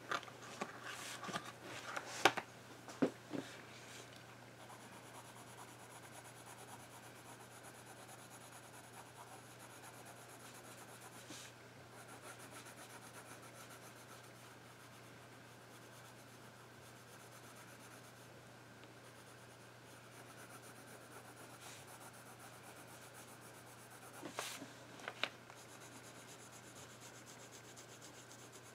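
Faint, steady rubbing and scratching of a drawing tool on paper, with a few light knocks in the first few seconds and again about 24 seconds in.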